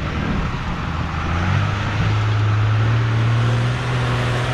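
Off-road racing truck's engine revving up, its pitch rising over the first two seconds and then holding steady.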